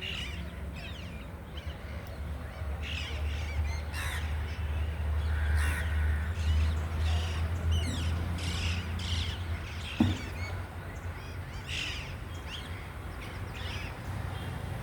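Parrots giving repeated harsh screeching calls, many short calls in a row, over a steady low rumble, with a single thump about ten seconds in.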